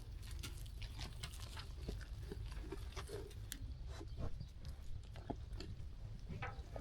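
Sheep grazing and moving about: many scattered small crunches and clicks of chewing and hoof steps over a steady low rumble.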